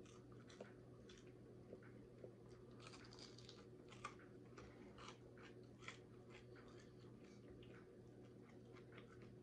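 Faint biting and chewing of crispy fried chicken: irregular crisp crunches of the breading, close up, over a low steady hum.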